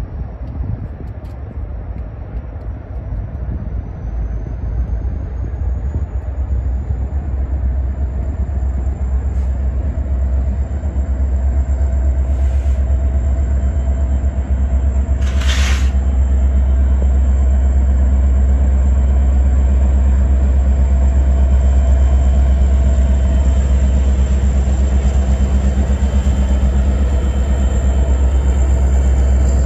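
BNSF diesel locomotives heading a coal train. Their engines drone deeply and the train's rumble grows louder as the locomotives come up and pass, then the rumble holds steady as the coal hoppers roll by. A short hissing burst comes about halfway through.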